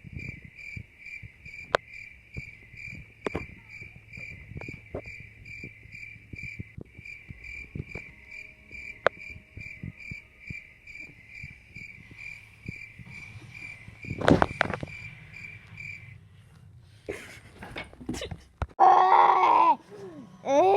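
A cricket chirping in an even pulse, about two or three chirps a second, stopping about sixteen seconds in. Scattered light knocks and a louder rustling thump around fourteen seconds sound beneath it, and voices yell near the end.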